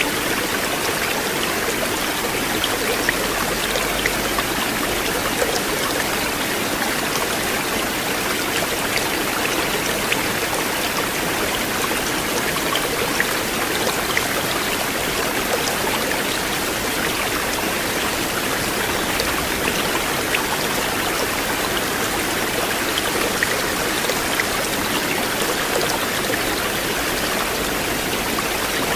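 River water flowing steadily, a continuous rushing with small splashes and drips ticking through it.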